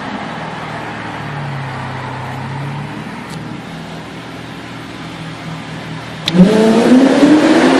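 Supercar engine running at low revs in a tunnel. About six seconds in, after a sharp crack, it goes to full-throttle acceleration, loud, with the pitch climbing steadily.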